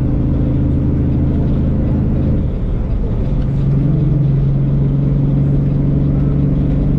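Semi-truck diesel engine running steadily under way, heard from inside the cab. About two and a half seconds in the engine note breaks off briefly and comes back steady at a slightly higher pitch.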